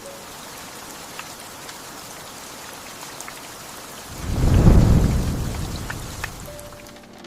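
Steady rain falling, with a few scattered drips. About four seconds in, a roll of thunder rumbles up and then fades slowly over a couple of seconds.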